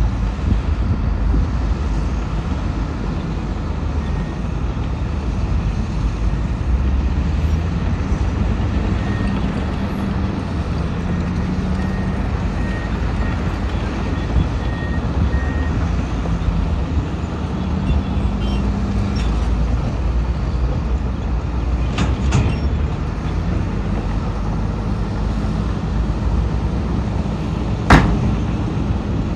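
Diesel engines of heavy earthmoving machinery running steadily, with the engine pitch shifting a little. Faint repeated high beeps sound in the middle, and a single sharp clank comes near the end.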